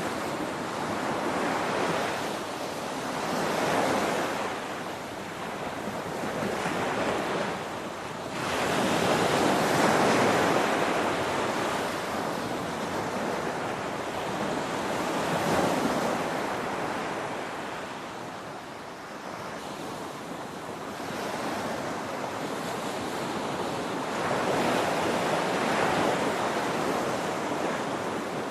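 Ocean surf: waves breaking and washing in as a steady rush of noise that swells and falls away every several seconds.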